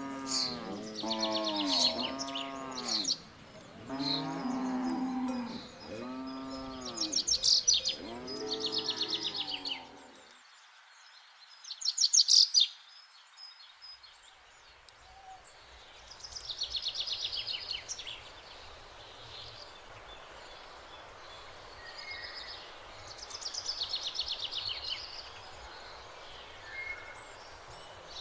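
Cattle mooing, a quick run of short calls that rise and fall in pitch, overlapping, over about the first ten seconds, then stopping. Birds chirp in short trills throughout, a loud burst about twelve seconds in.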